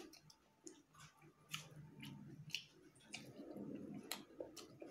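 Faint close-up chewing with a few sharp mouth clicks and smacks as a roasted chilli is bitten into and eaten.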